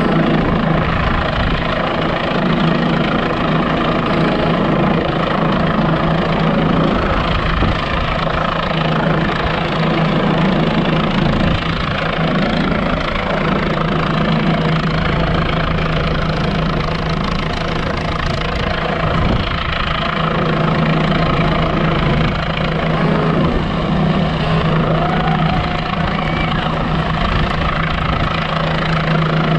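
Helicopter hovering, its rotor and engine making loud, steady noise with a constant low tone underneath.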